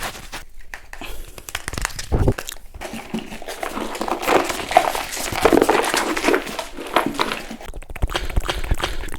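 ASMR trigger sounds: a run of quick, irregular clicks and rustling, busiest around the middle.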